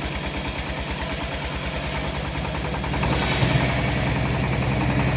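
Engine of a homemade bandsaw mill running steadily with an even low pulsing; about three seconds in, it gets louder and fuller.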